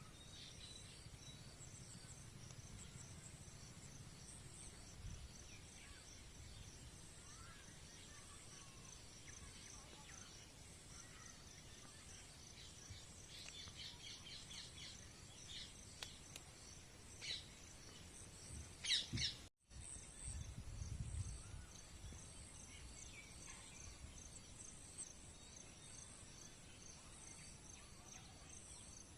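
Faint outdoor nature ambience: insects chirping in a steady, evenly pulsing high pitch, with scattered bird chirps that cluster more densely about two-thirds through. The sound cuts out for a moment just after that, then the insect chirping carries on.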